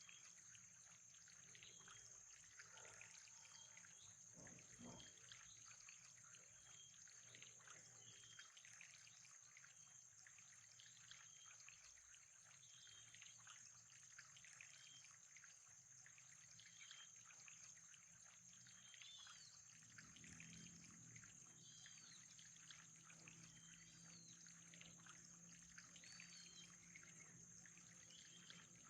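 Faint trickling, pouring water with short high chirps repeating about once a second and a steady high whine; a low hum comes in about twenty seconds in.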